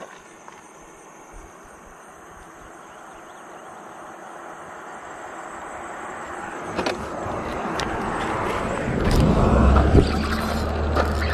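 A motor vehicle drawing closer: tyre and engine noise grows steadily louder, with a low rumble coming in over the last couple of seconds and a single knock near the end.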